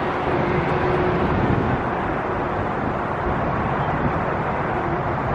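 Steady hum of road traffic, a constant rushing noise with no distinct events.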